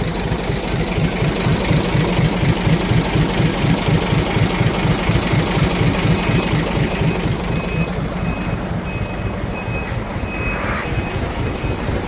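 Truck diesel engine running at a steady idle with an even, fast low pulse. From about six seconds in, a high electronic beep repeats at regular short intervals over it.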